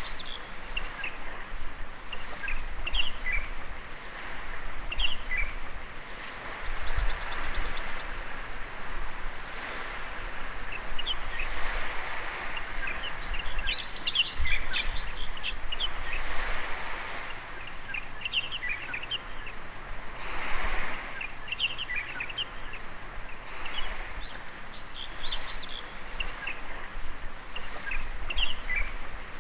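Small birds chirping and calling over and over, including a quick run of high notes about seven seconds in, over the wash of gentle waves on a beach that swells and falls every few seconds.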